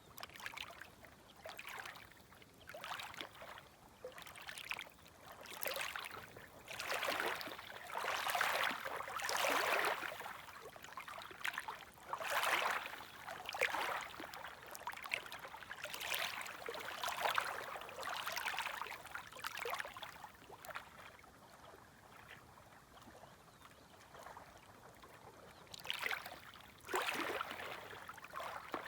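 Small, gentle sea waves lapping and washing at the shore, a soft splash every second or two. The splashes are strongest through the middle, die away for a few seconds, and one more wave comes in near the end.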